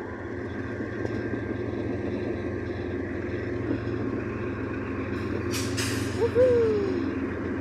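Diesel locomotives of a freight train rumbling steadily with a low engine hum, growing a little louder as the train draws near. A brief hiss comes about five and a half seconds in.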